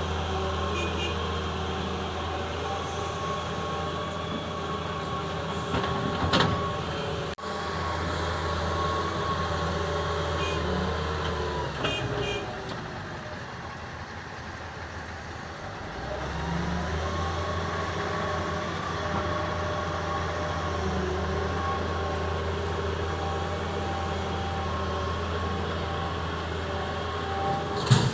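Diesel engine of a Doosan 140W-V wheeled excavator running steadily with a low hum and several steady tones while it works. It eases off for a few seconds past the middle, then picks back up. A sharp knock comes about six seconds in.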